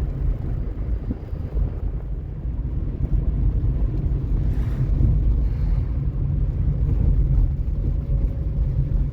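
Motorcycle engine running while riding, a steady low rumble with wind buffeting the microphone.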